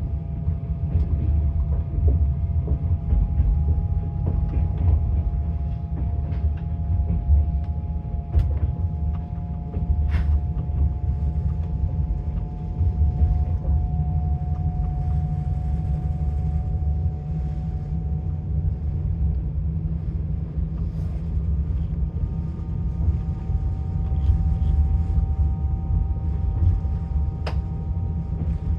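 A train running, heard from inside the carriage: a steady low rumble of the wheels on the rails, with a faint steady whine and a few sharp clicks.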